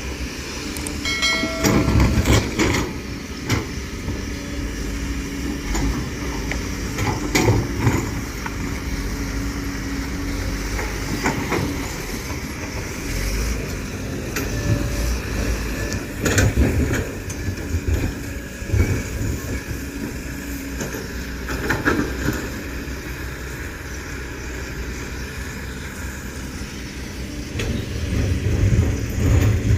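Hydraulic excavator at work: the diesel engine runs steadily under load while the bucket and arm give repeated clanks and knocks every few seconds as it digs mud. A short high squeal is heard about a second in.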